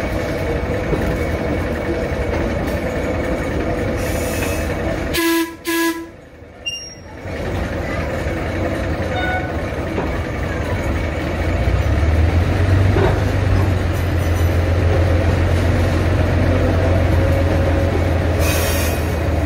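Ride noise aboard an open-air train car: the steady rumble of the train rolling along the track, with a low drone growing stronger from about twelve seconds in. Two short tones sound about five seconds in, as the rumble briefly drops away.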